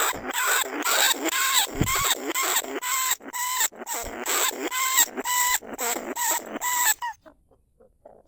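Lesser bandicoot rat calling in a rapid series of harsh, squealing chirps, about three or four a second. The calls stop abruptly about seven seconds in, leaving a few faint squeaks.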